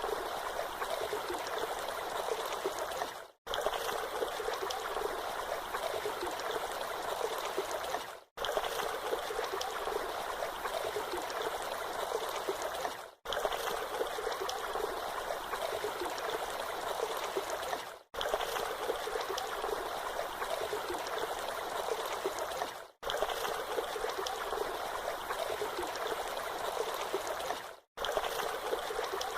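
Flowing water rushing steadily, cutting out briefly about every five seconds.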